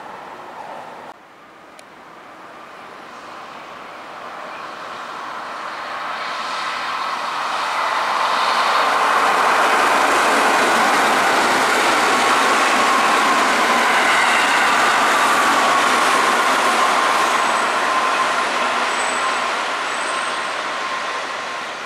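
Keihan electric commuter train passing on curved track. The running noise of its wheels on the rails builds over the first several seconds, stays loud through the middle and fades toward the end.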